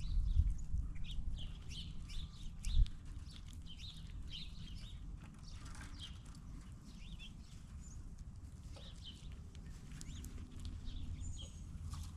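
Small birds chirping repeatedly in short calls, over a low steady rumble, with a few knocks on the feeding table in the first three seconds.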